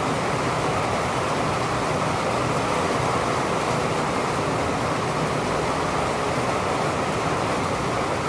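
Steady rain falling, an even rushing hiss with no breaks or thunderclaps.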